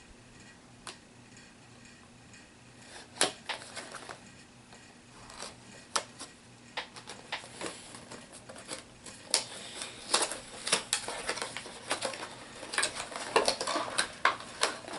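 Plastic packaging and small plastic miniatures being handled on a table: irregular sharp clicks and short rustles, sparse at first and busier in the second half.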